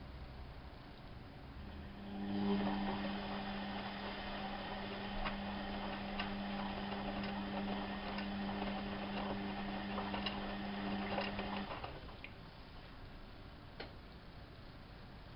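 Bauknecht WAP 6460 front-loading washing machine working through its program: a steady hum with a hiss and small clicks starts about two seconds in and cuts off sharply after about ten seconds.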